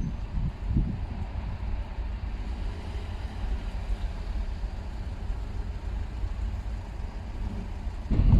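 Steady low rumble of a vehicle, with a few dull low thumps in the first second.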